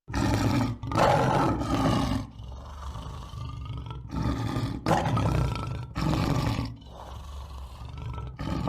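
A large animal giving a series of deep, rough roaring calls, each half a second to a second and a half long, with short gaps between them; the first two are the loudest.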